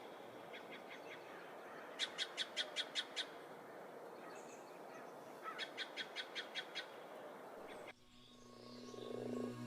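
A bird calling in three bouts of quick, evenly repeated high notes, about five to seven notes a bout, over a faint steady forest hiss. Near the end the forest sound cuts off and soft ambient music with long low tones fades in.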